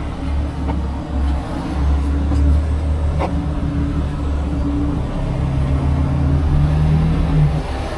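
Heavy diesel engine of a tow truck running steadily with a low rumble, its hum shifting slightly in pitch.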